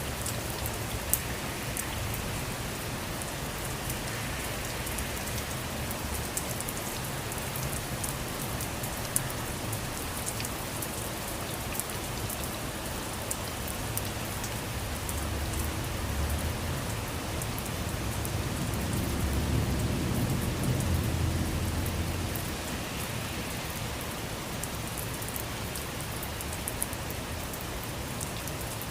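Steady rain falling on surfaces, with individual drops ticking. A low rumble swells and fades about two-thirds of the way through.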